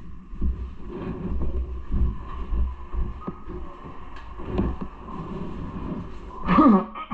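Uneven low rumble of wind buffeting an action-camera microphone while riding. About six and a half seconds in comes a short, louder sound that falls in pitch.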